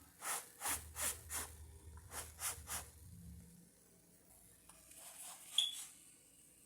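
A utensil scraping and scooping fried rice in a dish: about seven short rasping strokes in two quick runs, then a single sharp clink a little over five seconds in.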